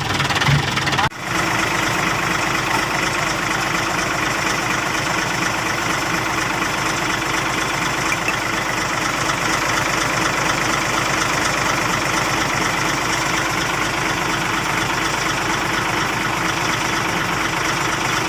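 Engine idling steadily with an even, rapid pulse, running smoothly after its rough, shaking start has settled. A brief sudden drop in sound about a second in.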